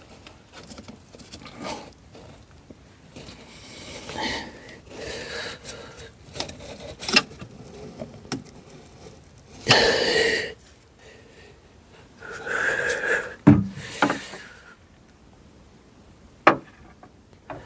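Handling noise from a magnetic pickup stick and an inspection camera being worked out of a spark plug hole: irregular scraping, rubbing and clicking, with louder bursts about ten and thirteen seconds in and a sharp click near the end.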